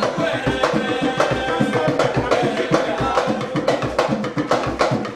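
Music led by hand drums playing a busy, even rhythm, with held pitched tones above the beat.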